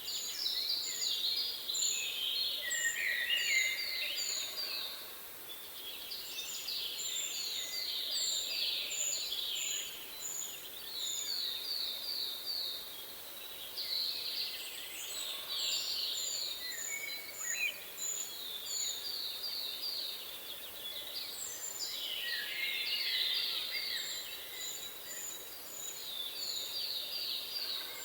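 Several birds singing together: quick runs of chirps, about four or five a second, repeat every few seconds alongside a series of short, very high notes, over a steady faint hiss.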